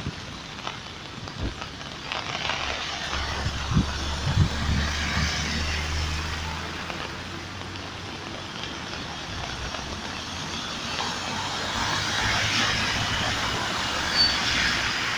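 Heavy rain on a city street with traffic: a steady hiss of rain and wet tyres, with a vehicle engine rumbling past between about three and seven seconds in. A few sharp knocks come around four seconds in.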